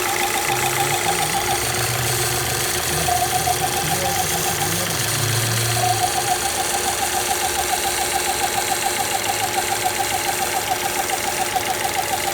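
Alfa Romeo Spider JTS engine running with a high, pulsing whine from its crankcase ventilation system. The whine drops out about two seconds in, comes back briefly, then returns steadily about six seconds in.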